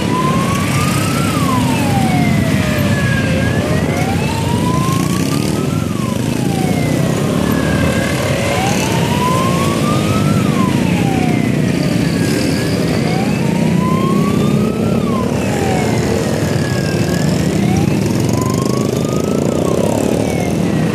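Siren wailing, its pitch sliding slowly up and down about every four and a half seconds, over a steady rumble of engines.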